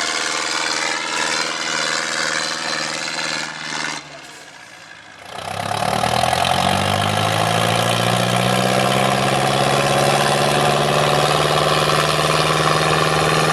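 IFA W 50 trial truck's engine running steadily, then dropping away about four seconds in. It then revs up, rising in pitch over about a second, and holds a steady, louder run.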